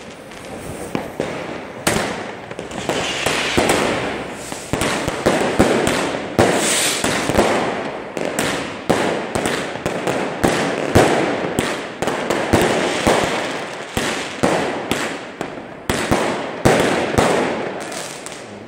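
Street fireworks going off: a dense, irregular run of loud bangs and crackles, with hissing stretches, as a firework battery fires shots up into the sky one after another.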